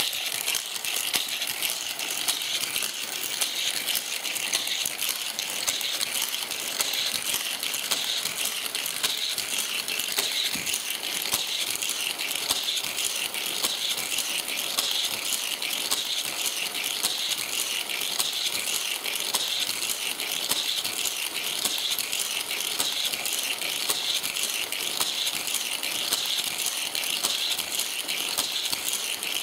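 Die-cast toy cars rolling on plastic Hot Wheels track, a continuous dense rattling and clicking.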